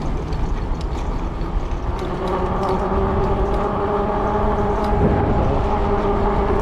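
Wind rumble on the microphone of a moving e-bike, with the steady, evenly pitched drone of landscapers' small-engine power equipment coming in about two seconds in and holding at one pitch.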